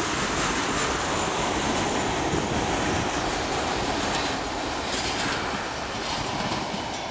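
Train running on the rails: a steady rumbling, rushing noise with no clear breaks.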